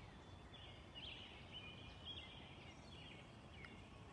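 Faint birdsong: short chirps repeated every half second or so over a quiet outdoor background.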